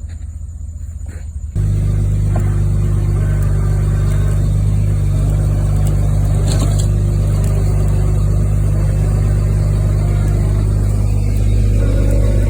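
Medium-duty wrecker's engine running steadily, then jumping suddenly to a louder, higher drone about a second and a half in, as it is raised in speed to pull the winch line tight; it rises a little again near the end.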